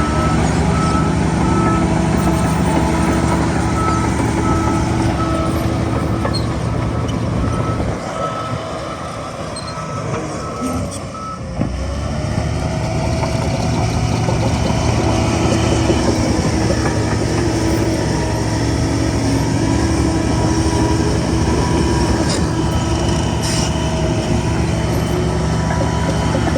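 Diesel engine of heavy earthmoving machinery running, with a reversing alarm beeping about once a second for the first eleven seconds or so. The engine dips briefly, then picks up again and runs on.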